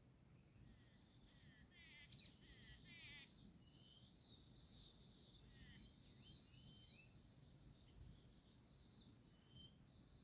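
Near silence, with faint birds chirping in the background: many short rising and falling chirps, and a quick trill about two to three seconds in.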